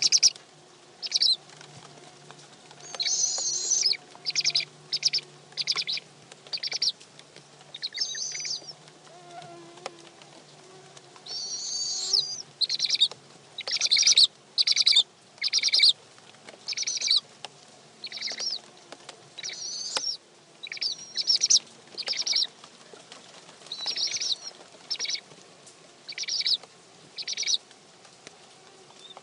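Barred owls in a nest box giving repeated short, high-pitched raspy calls, each well under a second long and spaced irregularly, over a faint steady hum.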